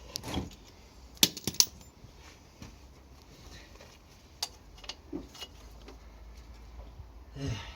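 Metal tools and parts clinking during motorcycle workshop work: a quick run of three sharp clinks a little over a second in, then a few scattered single clinks and a short rustle near the end.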